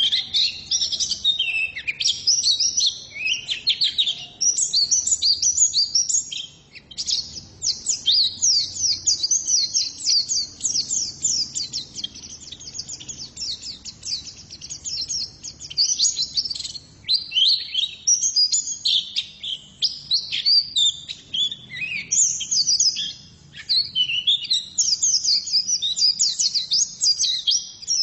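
Female white-eye (pleci) singing: a long run of rapid, high twittering chirps, broken by a few brief pauses.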